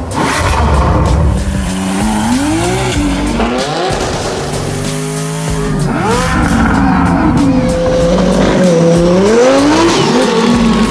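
Twin-turbocharged Chevrolet Corvette C8 V8 engine revving, its pitch climbing and dropping several times.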